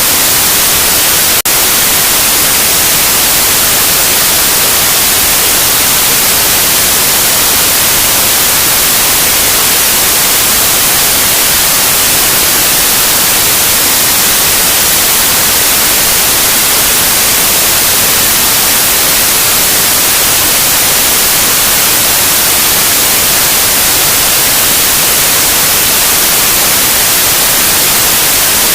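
Loud, steady white noise: an even hiss across the whole range, strongest in the highs, with one very brief dip about a second and a half in.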